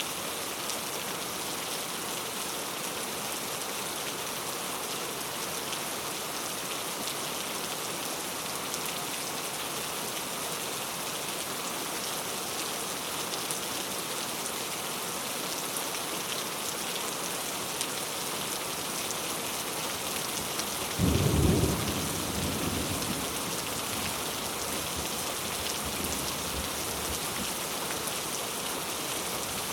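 Steady rain falling, with one clap of thunder about two-thirds of the way in that rumbles away over a couple of seconds.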